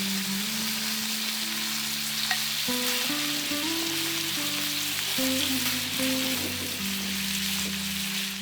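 Food frying in a pan with a steady sizzling hiss, over background music of slow, sustained notes.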